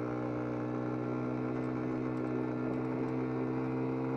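Small single-cylinder engine of a Chinese-made Dax-style mini motorcycle running steadily under way, a constant hum that gets slightly louder near the end.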